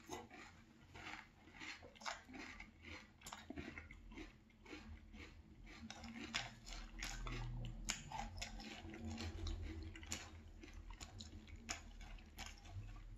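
Mouth chewing a spoonful of milk-soaked frosted corn flakes (Strawberry Milkshake Frosted Flakes), heard as faint, irregular crunches.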